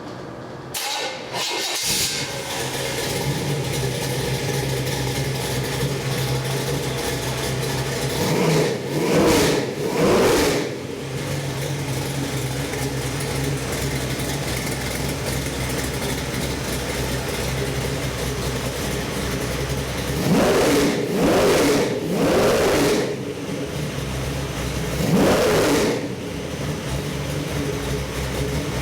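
Carbureted Chevy 383 stroker small-block V8 crate engine on a test stand, cranking and starting about a second in, then idling steadily. The throttle is blipped in short revs: twice around the middle, three times in quick succession later on, and once more near the end, each settling back to idle.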